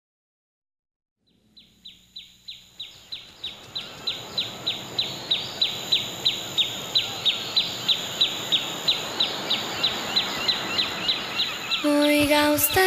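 A bird's short, high, downward-sliding chirp repeated steadily about three times a second, fading in after a second of silence over a steady high hiss. Music comes in near the end.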